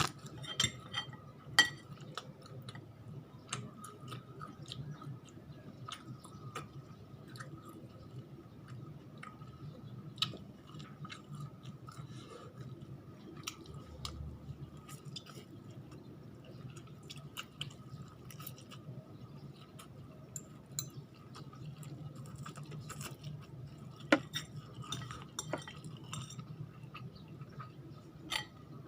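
A person chewing food close to the microphone, with scattered sharp clicks and clinks of utensils against a dish. A faint steady hum runs underneath.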